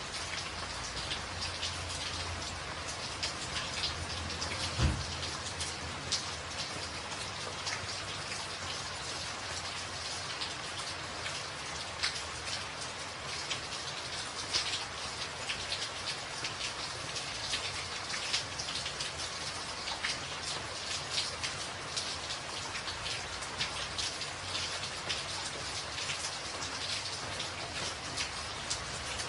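Steady rain drumming on a tin roof, a dense patter of many separate drop hits, with one heavier knock about five seconds in.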